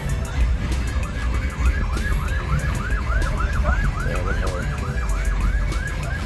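A siren yelping rapidly, with an even rise-and-fall swoop about four times a second. It starts about half a second in and is strongest through the middle.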